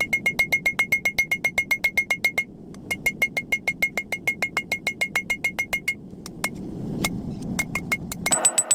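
Hammer striking hot steel on an anvil in a fast, even rhythm, each blow ringing, with a short break about two and a half seconds in and sparser blows near the end.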